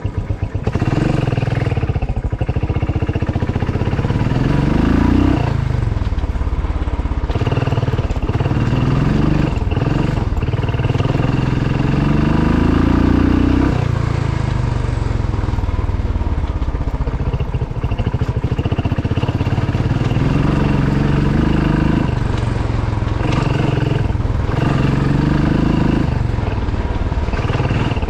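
Motorcycle engine running on the move, its pitch climbing and dropping back several times as the rider accelerates and shifts gears.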